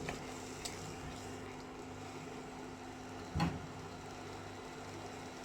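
Steady low hum with a single thump about three and a half seconds in.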